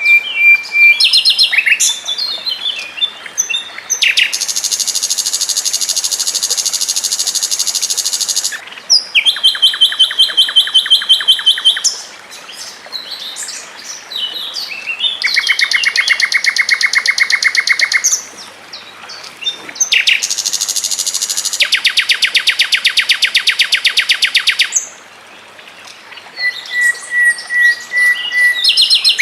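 Songbird song with long, rapid trills of fast-repeated notes, each held for several seconds. Between the trills come short, varied chirping phrases and brief pauses.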